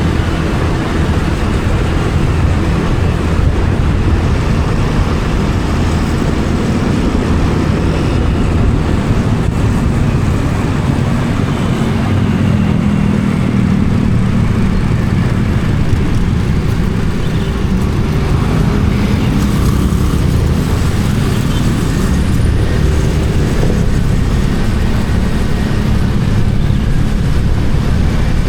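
Motorcycle engine running while riding, mixed with steady wind and road rumble on the camera's microphone, loud and even throughout.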